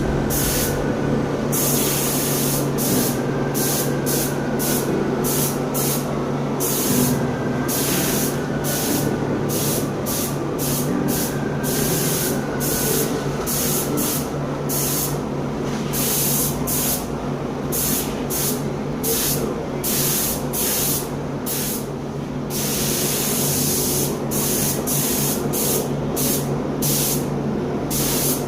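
Colour coating being sprayed in many short bursts with brief pauses between them, over a steady low hum.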